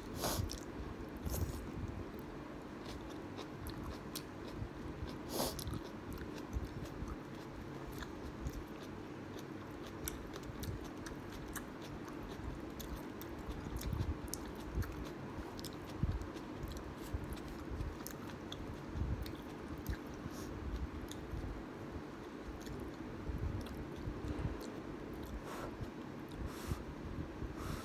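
Close-up chewing and crunching of kimchi and ramen noodles, with many short, sharp mouth clicks and smacks scattered throughout, over a faint steady hum.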